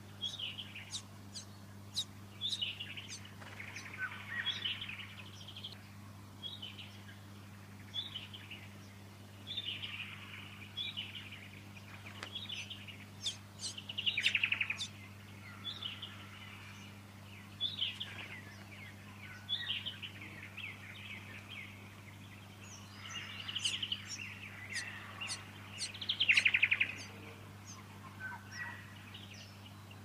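Small birds calling: a string of short chirps and brief call phrases, coming every second or two, with louder runs about halfway through and near the end. A steady low hum lies underneath.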